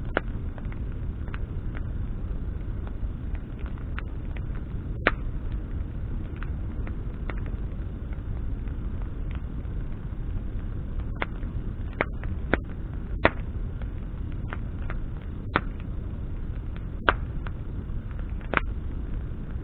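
Wood campfire burning with a steady low rumble of flame, broken by sharp pops and crackles from burning branches, about a dozen over the stretch, the loudest a little after five seconds and again around thirteen and seventeen seconds.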